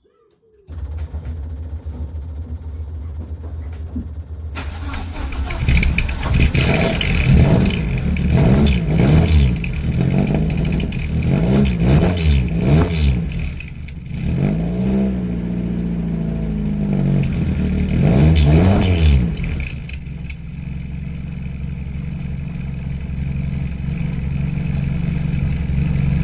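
Mk2 Ford Escort's engine starting about a second in and idling, then revved in a string of rises and falls for about fifteen seconds before settling back to a steady idle. The exhaust runs through a dB killer in an angled tailpipe to quieten it; to the owner it is quite a bit quieter.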